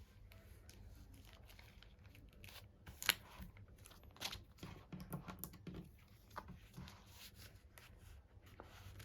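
Packaging being handled and torn open: irregular crinkling and tearing rustles with small clicks, one sharp click about three seconds in being the loudest.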